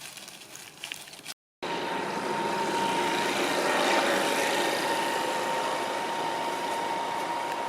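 A motor vehicle's engine running close by, a steady drone with a fixed whine, swelling to a peak around the middle and easing slightly. It begins abruptly after a short break in the sound a little over a second in.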